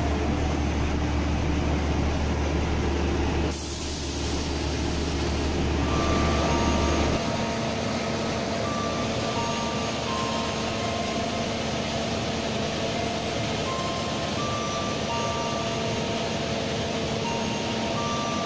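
Passenger train carriages rolling past a platform with a steady low rumble and a hiss of air partway through. After a cut, a steady hum with a simple tune of short electronic beeps over it.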